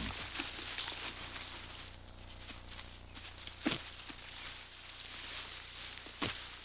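Scuffling and a few short thuds as two male grey kangaroos fight, striking with paws and legs. A faint high chirring runs under the first half.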